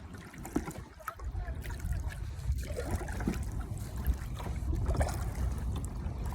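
Water trickling and lapping against a kayak's hull on the river, with small splashes. A low steady rumble comes in about a second in.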